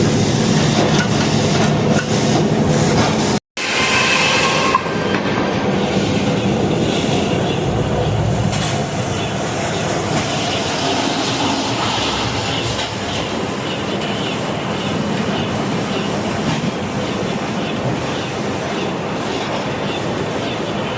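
Sawmill running and cutting through a big log: a steady, loud mechanical run with some squealing tones from the blade in the wood. The sound breaks off for an instant about three and a half seconds in.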